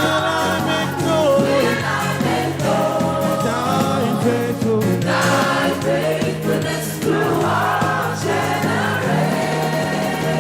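Live gospel praise music: a choir singing over a band with a steady bass line.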